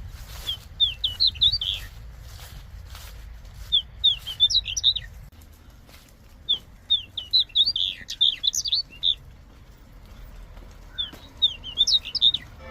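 A small songbird singing in four bursts of quick, high chirping notes, spaced about three seconds apart, over a low steady background rumble.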